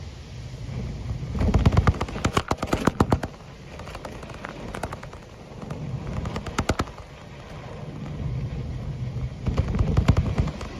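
Storm wind gusting in three surges, each surge bringing a rapid clatter of sharp impacts against something close by.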